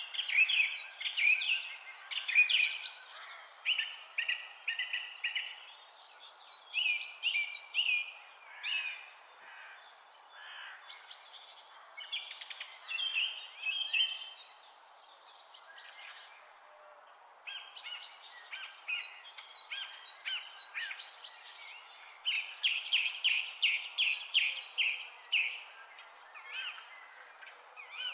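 Several songbirds singing at once, quick repeated chirps and trills overlapping almost without pause and dropping away briefly a little past the middle, over a steady background hiss.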